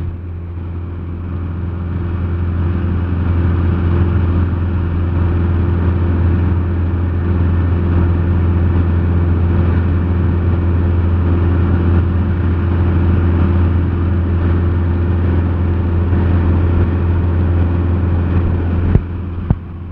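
Cessna 172SP in cruise, heard inside the cabin: the steady drone of its four-cylinder Lycoming piston engine and two-blade propeller, a low hum with even tones above it, growing slightly louder over the first few seconds.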